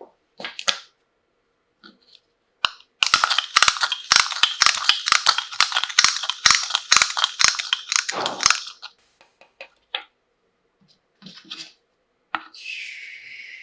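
Plastic toy packaging being handled and crinkled: a few clicks, then several seconds of dense, rapid crackling and clicking, with scattered clicks after.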